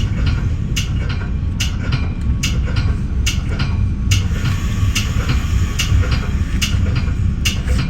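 Moving bi-level commuter rail car riding the track: a steady low rumble with sharp clicks repeating about every 0.8 s.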